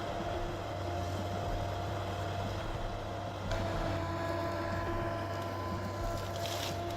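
Feller buncher's engine and hydraulics running steadily with a constant hum and a whine. There is a short rush of noise about halfway and a louder, hissing rush near the end.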